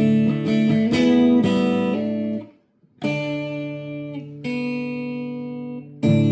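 Guitar chords strummed and let ring on month-old strings. There are several quick chord changes in the first two seconds and a brief silence near the middle. Then a chord rings out for about three seconds before another is struck near the end.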